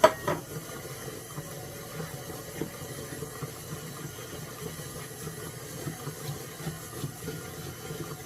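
A sharp knock right at the start, then quiet, irregular scraping of flour and wet dough being stirred together in a bowl with a Danish dough whisk.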